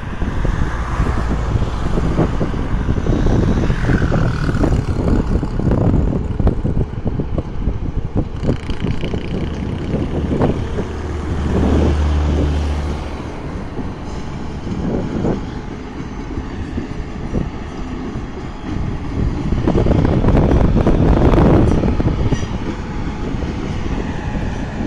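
ONCF electric train passing on the rails: a continuous rumble full of short clattering strokes from the wheels, with a steady low hum about halfway through and a louder stretch near the end.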